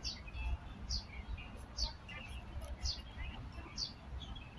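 A bird calling over and over: a short, high, falling note about once a second, with softer chirps between the calls.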